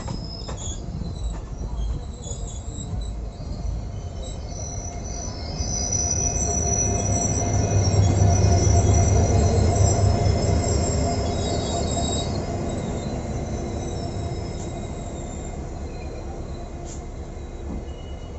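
Passenger train running on the rails with a steady rumble of coach wheels, with high-pitched wheel squeal. The rumble swells to its loudest about a third of the way in, then slowly fades.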